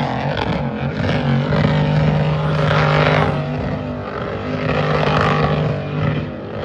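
A car engine running steadily at a classic car show.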